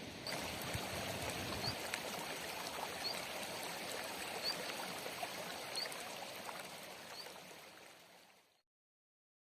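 River water rushing steadily, with a bird's short high chirp repeating about every second and a half. It all fades out and stops near the end.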